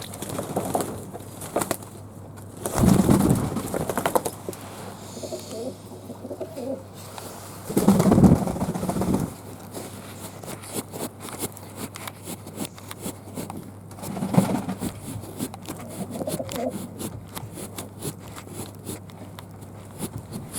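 Fantail doves cooing: several low coos, the loudest about 3, 8 and 14 seconds in, each lasting about a second, with light clicking throughout.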